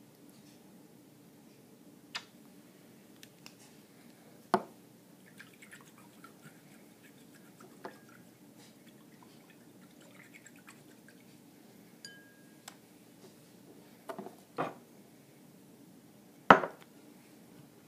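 Scattered sharp clinks and taps against a bowl of water as food coloring is added and stirred in. The loudest clink comes near the end.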